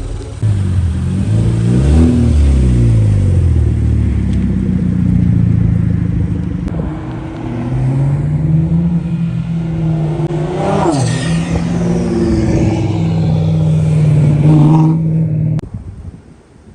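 Car engine running loudly under load, its pitch holding steady for long stretches, with a quick rev up and back down about two-thirds of the way through. The sound cuts off abruptly near the end.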